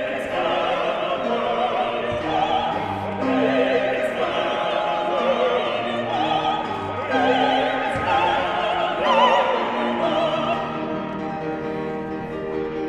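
Operatic singing with strong vibrato over classical accompaniment, the voice moving through sustained, changing notes.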